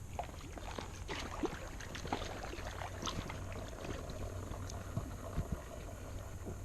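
Small clicks, creaks and light water splashes from a cheap inflatable raft being moved about on a pond, over a steady background hiss.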